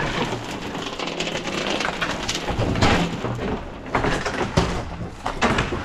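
Irregular knocks and clatter of hand work on a building site, over a steady noisy hiss.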